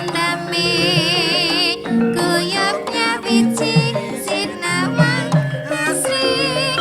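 Javanese gamelan ensemble playing dance music: sustained pitched metal tones, frequent drum strokes, and a wavering melody line with vibrato over them.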